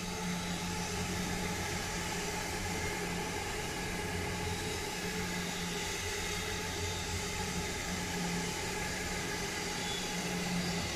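JR East E257 series electric limited express train passing close by: a steady running rush of noise with a low hum underneath.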